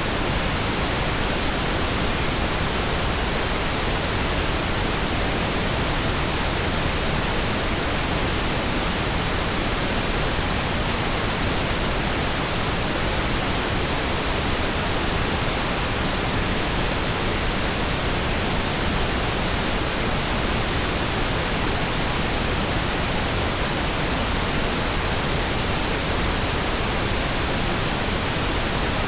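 Synthetic pink noise: a smooth, steady hiss spread across all pitches, with no changes.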